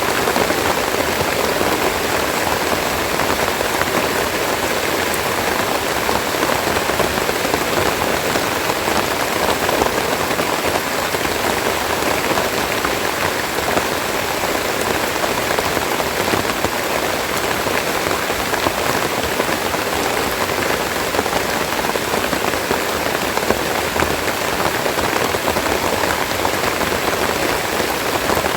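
Steady heavy rain falling on leaves and surrounding surfaces, a dense even hiss of many drops with no let-up.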